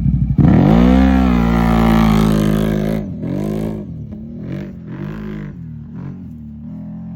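CFMoto 1000 Gen 2 engine launching hard about half a second in, revving up and holding high revs. After about three seconds it drops off and goes on with rises and dips in revs, quieter, as the machine pulls away through the track.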